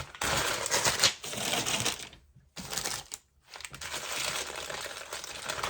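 Crinkling and rustling of packing wrap as mineral specimens are unwrapped, with clicks of stones being handled and a sharp click about a second in. The rustling breaks off briefly twice in the middle.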